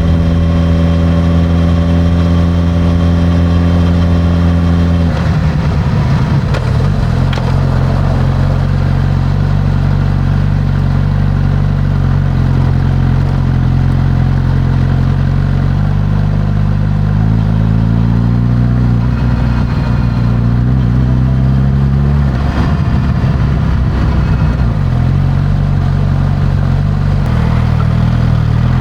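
Suzuki GSX-S1000 inline-four through its stock exhaust, running steadily while being ridden. The engine note drops about five seconds in, climbs in pitch around eighteen seconds, breaks again a little past twenty-two seconds, and then holds steady.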